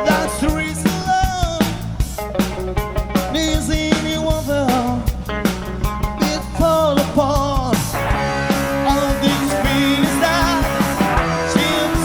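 Rock band playing live, with drums, guitars and a gliding lead melody line. About eight seconds in, the music shifts into a denser section of held, wavering notes.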